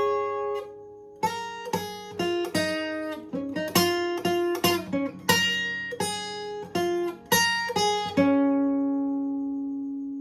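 Guitar tuned a half step down playing a single-note lead phrase of quick picked notes. The phrase ends on one note held for about two seconds, which is then cut off.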